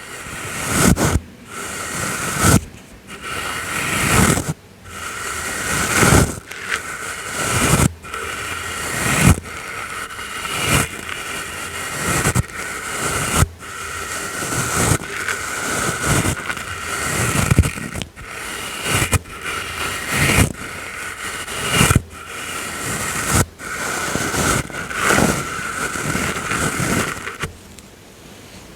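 Soft ASMR brush stroked close to the microphone in slow repeated sweeps, about one every one and a half seconds. Each stroke swells into a soft hiss and ends with a brief click; the brushing stops just before the end.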